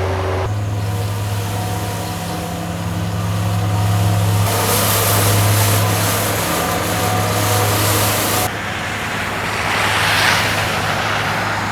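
A motor vehicle's engine running with a steady low hum. A loud rushing hiss starts suddenly a little over four seconds in and cuts off about four seconds later, and a shorter swell of hiss follows near the end.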